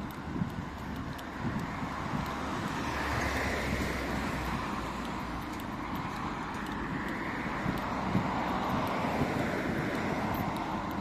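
Street traffic: road noise from passing vehicles, swelling twice, once about a third of the way in and again past the middle.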